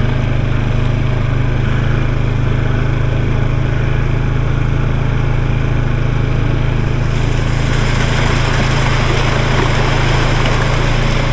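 ATV engine running steadily at low speed while riding a rough trail. A rushing hiss joins the engine about seven seconds in.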